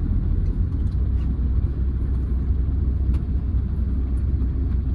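Steady low rumble of a 2008 Hyundai Verna 1.6 turbo-diesel on the move, engine and road noise.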